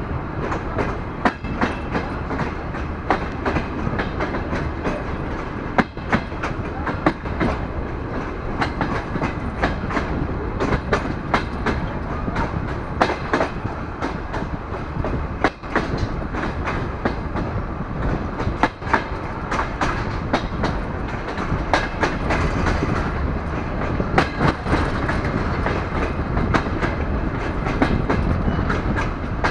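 DR1A diesel multiple unit running along the track, heard from an open window: a steady running noise with irregular sharp clicks as the wheels pass over rail joints and points.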